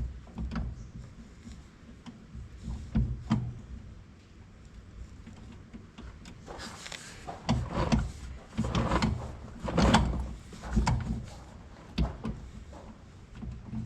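Irregular metal knocks and scraping from hand tools and parts on a corn planter's wheel hub during bearing removal, with a busier stretch of scraping and clanks in the middle.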